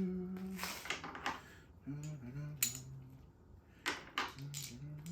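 Metal tools clinking and tapping against metal parts in a series of sharp clinks while a man hums a tune to himself.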